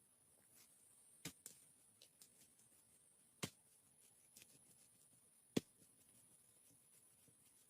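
A few sharp, short knocks or clicks, one every two seconds or so, over a faint steady high-pitched hiss.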